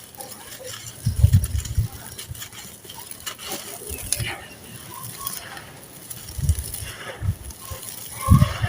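Dry sand-cement and charcoal lumps crumbling: gritty crackling with several dull thuds as pieces break and drop, a cluster of them about a second in and single ones later.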